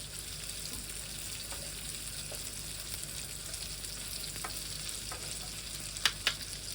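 Leftover cubed roasted potatoes and onion frying in fat in a pan: a steady sizzle, with two sharp clicks about six seconds in.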